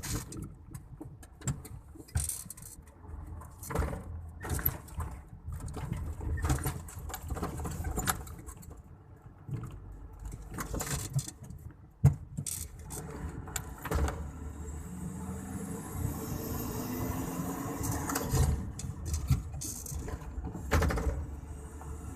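Mitsubishi Fuso turbo-diesel truck engine running, heard from inside the cab over clattering and jangling cab rattles, with one sharp knock about halfway through. Past the middle the engine note and a high turbo whistle climb together for a few seconds, then drop away suddenly, as at a gear change.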